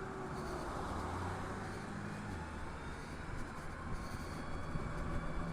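Steady wind and road noise from riding a Harley-Davidson LiveWire electric motorcycle, picked up by a chin-mounted helmet camera, with a faint low hum underneath.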